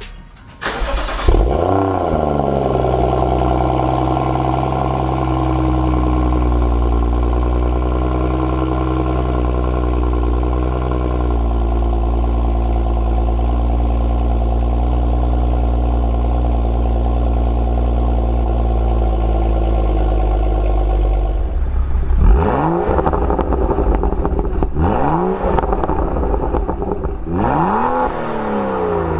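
BMW N55 3.0-litre turbocharged straight-six with an M Performance exhaust starting up. It flares and settles within a couple of seconds into a steady idle, then near the end is revved in three short throttle blips that rise and fall.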